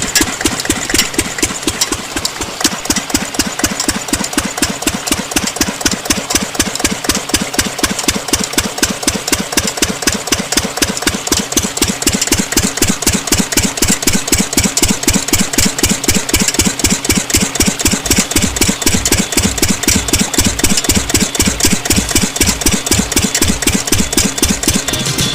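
Small diesel engine driving a water pump, running steadily at idle with a rapid, even thumping beat. The beat grows heavier in the low end about three-quarters of the way through.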